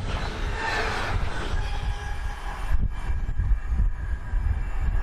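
The last container wagons of a freight train rolling past on jointed track, the wheels rumbling and clattering. The hiss of the passing wagons dies away about halfway through, leaving a low rumble as the train draws off.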